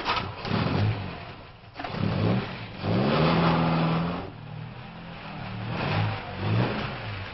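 Open two-seater sports car's engine revving as the car pulls away. The pitch climbs and drops back several times as it accelerates, holds high for about a second midway, then falls and rises again near the end.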